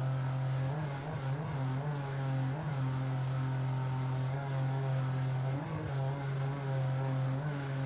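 Outboard jet motor of an inflatable river jet boat running steadily under way, its pitch wavering briefly a few times.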